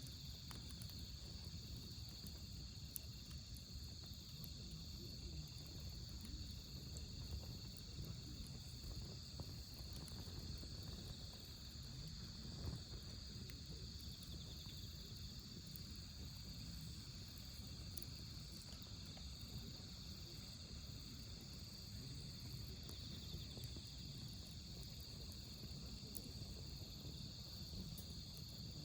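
Autumn night insects such as crickets trilling steadily at a high pitch, with a few faint pops and crackles from a burning wood fire.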